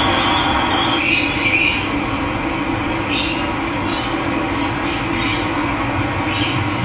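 Steady rush of running water, with birds chirping in short calls every second or two over it.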